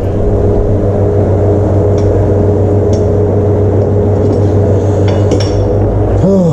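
Steady loud mechanical hum with a few faint clicks and clinks.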